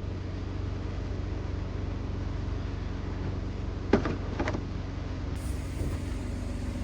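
A steady low engine hum with two sharp clicks about four seconds in, half a second apart.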